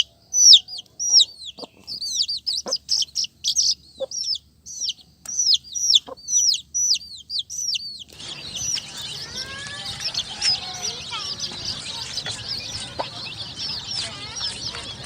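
Baby chicks peeping: single short, high, falling peeps one after another, with a few soft taps. About eight seconds in, the sound changes suddenly to a dense chorus of many chicks peeping at once.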